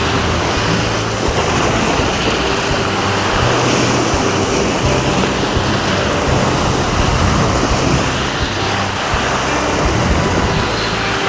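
Sea surf washing against the breakwater and rocks, a steady rushing of waves.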